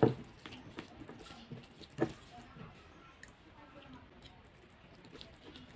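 A person chewing a mouthful of taro root curry and rice, with small wet eating noises. Two sharp knocks come at the start and again about two seconds later.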